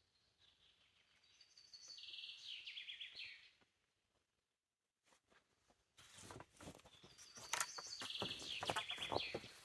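A songbird sings a short phrase ending in a fast trill, twice, the second time over a run of sharp clicks and crackles that start suddenly after a brief dead-silent gap.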